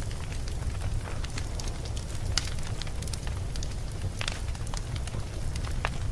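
Wood fire burning in a fireplace: a steady low rumble of flames with irregular sharp crackles and pops, two of them louder, about two and a half and four seconds in.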